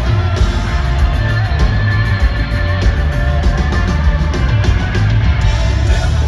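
Live country-rock band playing loudly, with electric guitar over heavy bass and drums; a high guitar note is held for a couple of seconds near the start.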